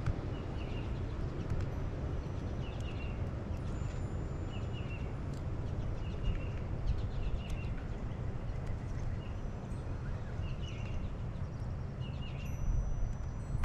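A songbird calling steadily, a short slurred two-note call repeated about once a second, over a steady low outdoor rumble.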